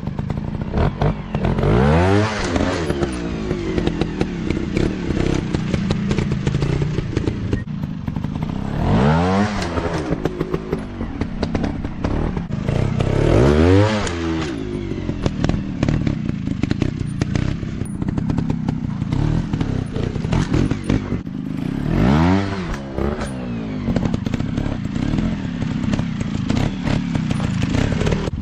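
Dirt bike engine running and revving hard in bursts: its pitch climbs steeply about four times, with lower, uneven running in between.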